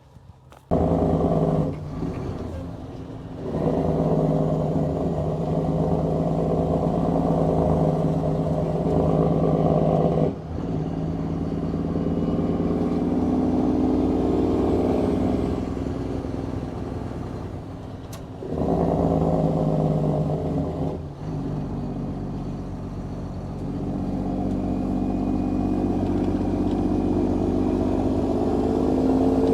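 Mack semi truck's diesel engine pulling through the gears, the pitch climbing and then dropping briefly at each of about three shifts.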